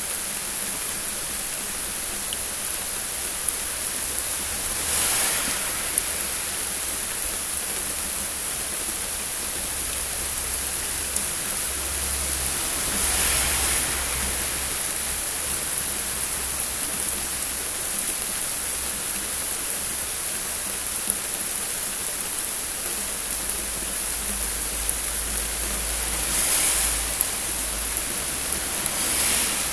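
Heavy rain falling steadily in a thunderstorm: a dense hiss with scattered sharp ticks of drops striking close by. The hiss swells briefly about four times, and a low rumble comes and goes underneath.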